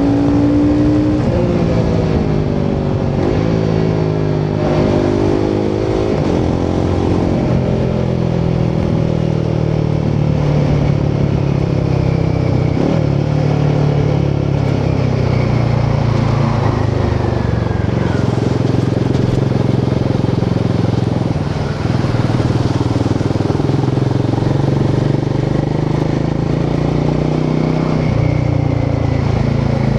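Royal Enfield Himalayan 450's 452cc single-cylinder Sherpa engine and exhaust running under way, the engine pitch rising and falling several times in the first seven seconds, then holding at a steadier cruise over a constant rushing noise.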